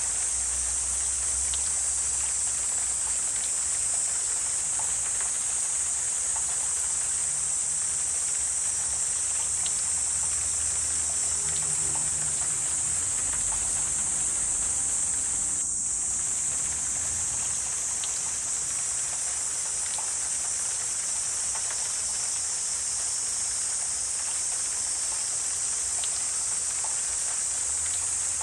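Wetland ambience: a steady, high-pitched chorus of insects, with a soft wash of water-like noise beneath and a few faint ticks.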